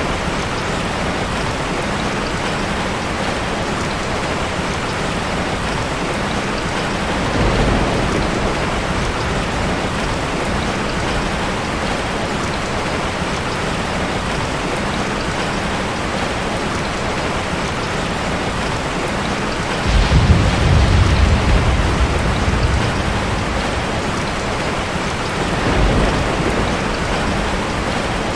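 Ocean surf: a steady hiss of breaking and washing waves, with deeper rumbling surges where bigger waves break, around 7 to 8 seconds in, more strongly about 20 seconds in, and again near the end.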